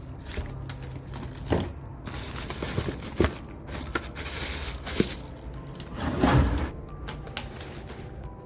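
Packaging rustling and crinkling in three bouts, with a few sharp knocks of items being handled and set down.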